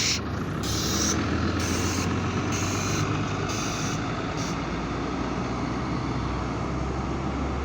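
City bus engine running with steady road and body noise. For the first four and a half seconds a high-pitched pulse repeats at even spacing, then stops.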